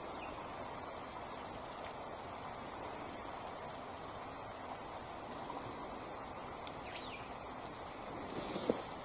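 Creek water flowing with a steady rushing sound, with a few faint ticks over it and a brief louder burst near the end.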